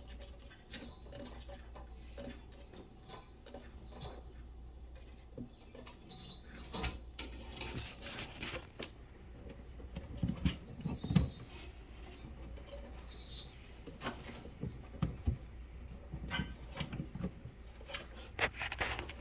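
Light scratching and pattering with scattered small knocks, typical of a live feeder mouse scurrying about a snake enclosure; a few louder thumps come about ten to eleven seconds in and again around fifteen seconds, over a steady low hum.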